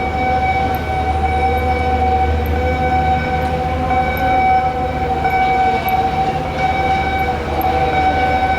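Alarm siren sounding as one steady, unbroken tone, with a second, lower tone wavering beneath it, over a low machinery rumble.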